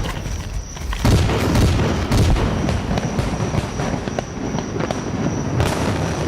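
Fireworks going off: a dense run of booms and sharp cracking bangs.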